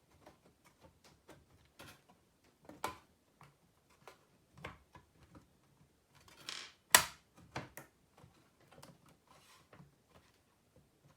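Irregular light clicks and knocks of small hard parts being handled, with a short scrape and then one louder clack about seven seconds in.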